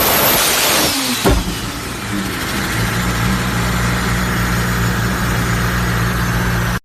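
Toyota Supra MK4's 2JZ inline-six: a loud rush of engine and exhaust noise for about a second, a single sharp crack, then the engine settles into a steady idle.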